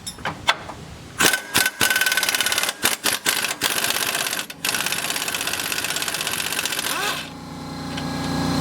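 Pneumatic impact wrench hammering on suspension bolts: several short rattling bursts, then one longer continuous run. About seven seconds in the rattle stops and a steady low hum starts and grows louder.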